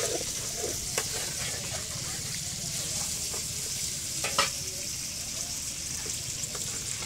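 Giant shrimp frying in oil in a blackened wok over a wood fire: a steady sizzle, with a few sharp clinks, one about a second in and the loudest just past four seconds.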